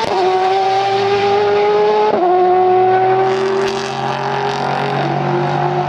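Race car engine accelerating hard through the gears: a high, steady engine note that climbs slowly in pitch and drops sharply at upshifts at the start and about two seconds in.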